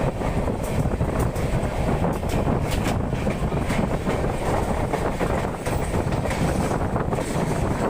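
Netravati Express passenger train running at speed: a steady rumble of wheels on rails, with scattered sharp clicks of the wheels over rail joints.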